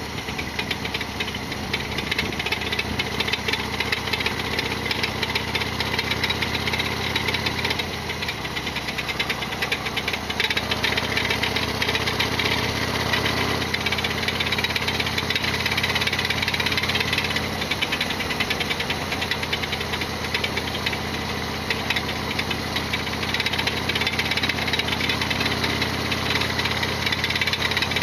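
Modified Harley-Davidson Sportster XL1200R's air-cooled 1200 cc V-twin running on the road, its pitch shifting slightly a few times with the throttle. A loud mechanical rattling clatter rides over the engine note: the persistent 'gatapishi' rattle that the owner calls a huge abnormal noise.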